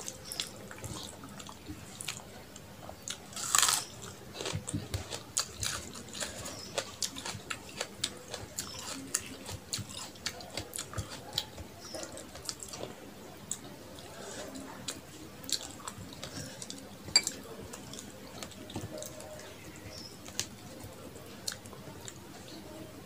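Close-miked chewing and wet mouth smacking while eating rice and chicken curry, with many short sharp clicks, the squelch of fingers mixing rice on a metal plate, and one louder burst about three and a half seconds in.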